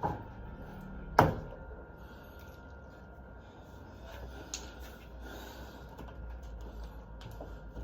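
Hands working on a washer-dryer's front panel: a sharp knock about a second in, a lighter knock at the start, then light rubbing and a small click, over a faint steady high tone.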